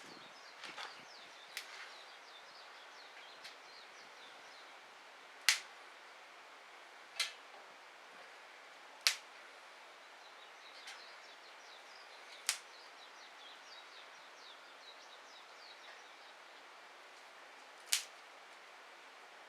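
Wood fire burning in a Solo Stove fire pit: a faint steady crackle and hiss with about five sharp pops spread through it.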